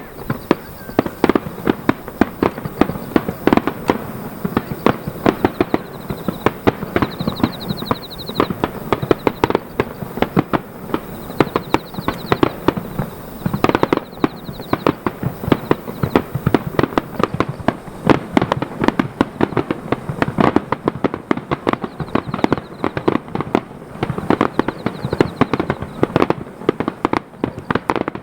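Fireworks display: aerial shells bursting in a dense barrage, several sharp bangs a second with no let-up.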